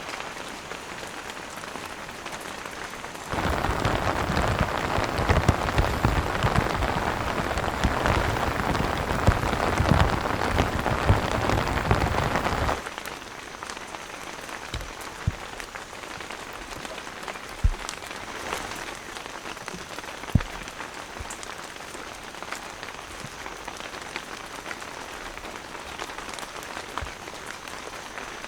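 Heavy rain falling and pattering on a tent awning. From about three seconds in to about thirteen seconds it is much louder and denser, starting and stopping abruptly. Afterwards a few single heavier drops tap.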